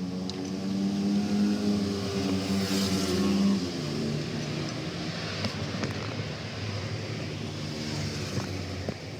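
A motor vehicle engine running steadily, its pitch dropping a little about three and a half seconds in, with a few light metallic clicks over it.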